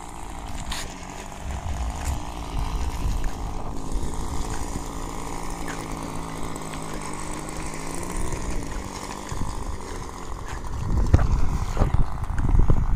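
OS 55 glow engine of a radio-controlled Pilatus PC-9 model plane running steadily with a slight wobble in pitch, fading away a little past halfway. Low rumbling thumps follow near the end.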